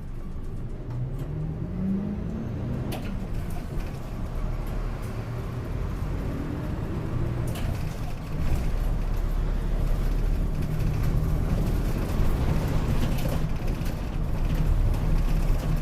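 City route bus's diesel engine pulling away and accelerating, its pitch rising over the first few seconds, rising again after a gear change about six seconds in, then running steadily and louder with road noise.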